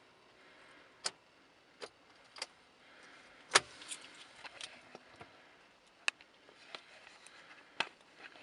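Car ignition key and switch clicking and jangling in irregular sharp clicks, the loudest about three and a half seconds in. No engine turns over or runs: this Ford Mondeo Mk3 2.0 TDCi diesel won't start.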